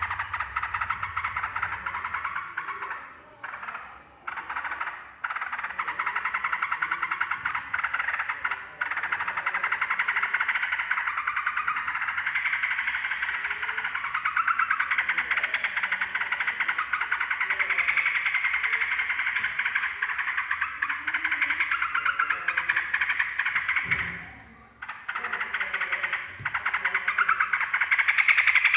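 Yellow-vented bulbul (trucukan) singing a fast, near-continuous chattering song, with a break of about a second near the end.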